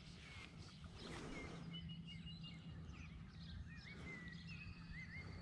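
Faint birdsong: short, wavy whistled chirps repeated every second or so, over a low steady rumble.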